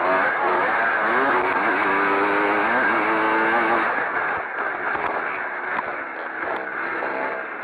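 Pre-65 motocross motorcycles racing, engines revving up and down with rising pitch sweeps as they accelerate and change gear. The engine sound drops and thins out about four seconds in.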